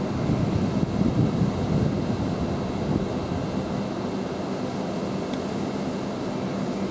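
Steady low rumble and hum of a Hull Trains Class 802 set standing at the platform with its doors locked, ready to depart but not yet moving.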